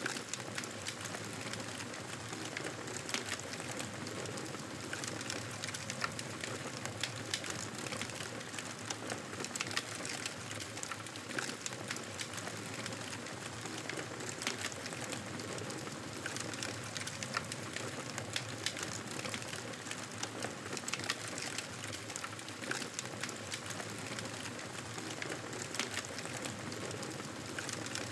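Campfire burning: a steady hiss with frequent small, irregular crackles and pops of burning wood.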